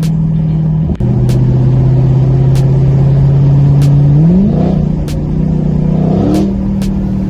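Straight-piped Dodge Challenger Scat Pack's 6.4-litre HEMI V8 on the move, its exhaust note steady and loud, heard from inside the car. There is a brief break about a second in, and the revs rise sharply twice, around four and six seconds in, each time holding at the higher pitch, as in downshifts.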